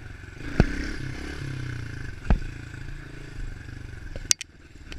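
A 110cc four-stroke pit bike engine running at low speed, with two sharp knocks, one about half a second in and one just past two seconds. Near the end a sharp click comes, and the engine sound drops away.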